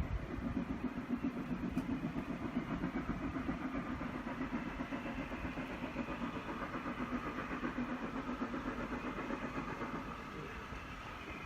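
A train's engine running with a steady, rapid throb, easing off slightly near the end.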